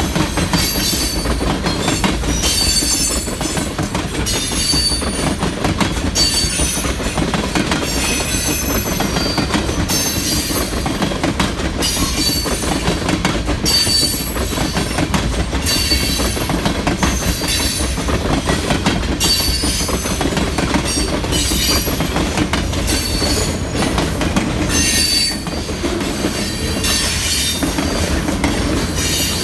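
Pan Am Railways freight train rolling past, its car wheels squealing in repeated high bursts every second or two over a steady low rumble of wheels on rail.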